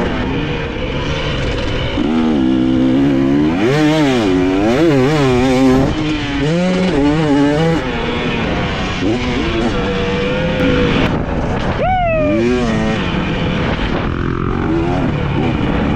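Dirt bike engine being ridden hard, revving up and dropping back again and again as the throttle is worked and gears are changed. About three quarters of the way through comes one quick sharp rev and fall.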